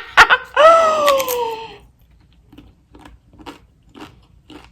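A woman's drawn-out vocal exclamation, sliding down in pitch over about a second, followed by faint crunchy chewing clicks about twice a second.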